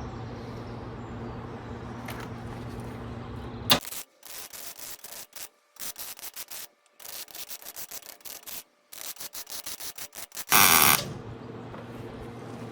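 A steady electric hum, then about six seconds of rapid buzzing, crackling bursts stopping and starting in quick succession, typical of arc welding a fitting onto a steel hull, with a loud burst of noise near the end before the hum returns.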